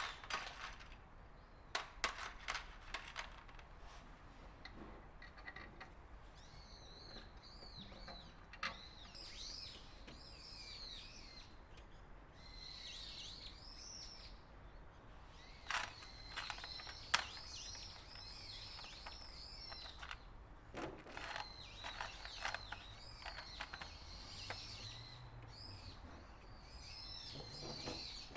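Small birds chirping repeatedly in short, high, up-and-down calls, with scattered sharp clicks and taps from hand work at several points.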